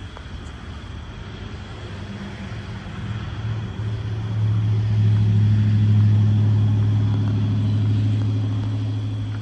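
Motor vehicle's engine hum passing close by, a steady low drone that grows louder over several seconds, peaks in the middle and begins to fade near the end.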